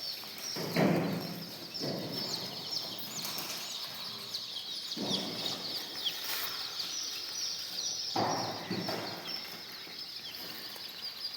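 A crowd of day-old chicks peeping continuously, many short high chirps overlapping, with several bouts of rustling and scuffling mixed in.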